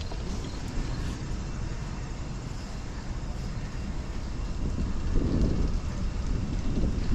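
Wind rumbling over the microphone during a bicycle ride, mixed with street traffic noise, swelling louder about five seconds in.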